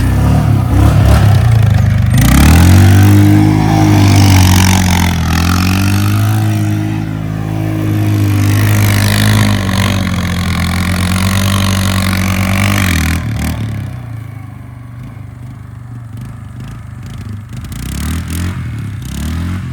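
Small motorcycle engine revving and accelerating, its pitch climbing and falling twice over about ten seconds. It drops to a quieter, lower running level for the last few seconds.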